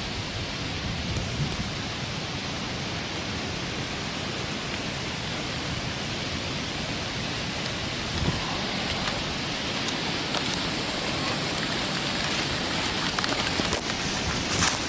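Steady rain falling, an even hiss of drops, with a few sharper ticks near the end.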